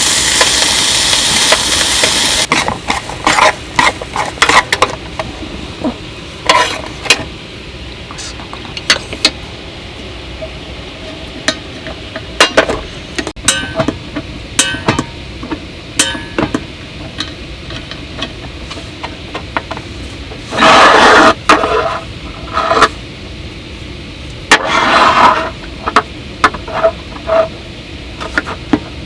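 Clinks, taps and scrapes of metal cookware and utensils being handled, following a loud hiss in the first couple of seconds that cuts off abruptly; two louder, rushing noises of about a second each come near the end.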